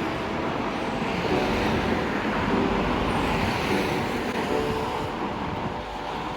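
Steady outdoor street noise, like road traffic, with a few faint pitched sounds through it.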